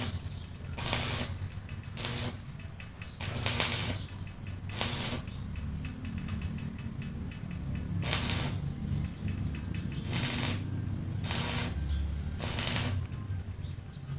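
Repeated scraping strokes, about eight, each under half a second and one to two seconds apart, over a low steady hum.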